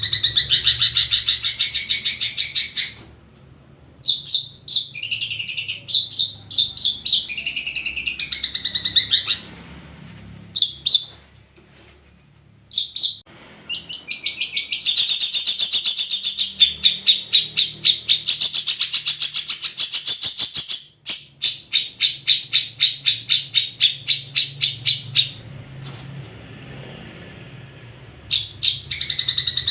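Long-tailed shrike (cendet) song: loud, fast runs of high repeated notes and chatter in long phrases, broken by a few short pauses.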